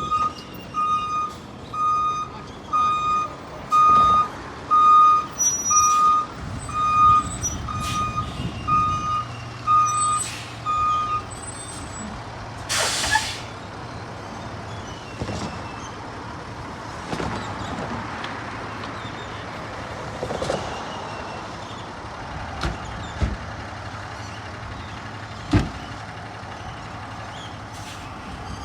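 Fire engine backing up: its reversing alarm gives a steady run of even beeps for about the first eleven seconds, and a short loud air-brake hiss follows. Through the rest, the diesel engine runs low and steady under a few scattered knocks.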